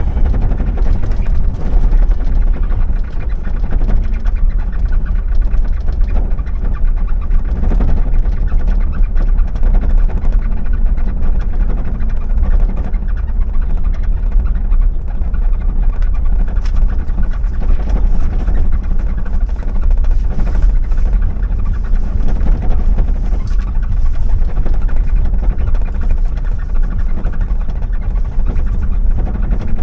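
Car driving along: a steady low rumble of engine and tyres, with scattered faint knocks.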